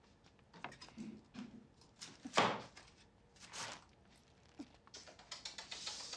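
A string of clattering knocks and bangs of cookware and utensils from clumsy kitchen work, the loudest a little over two seconds in.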